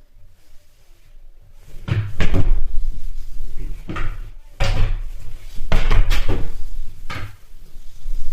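A run of about seven sharp knocks and bangs at irregular intervals, starting about two seconds in.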